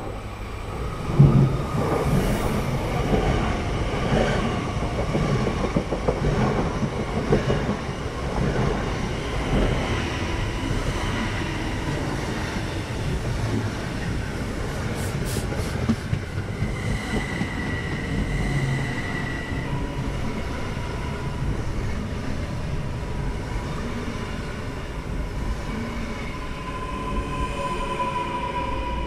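SBB Giruno (RABe 501) electric multiple unit rolling into a station, its wheels knocking over rail joints and points, with a sharp knock about a second in. Past the middle a thin squealing tone sets in and grows louder near the end.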